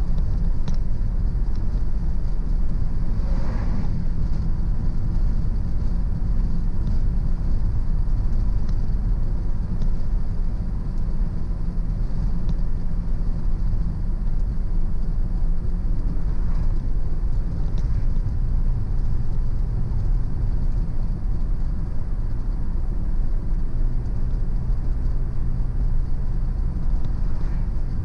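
Car driving at road speed: a steady low rumble of engine and tyres.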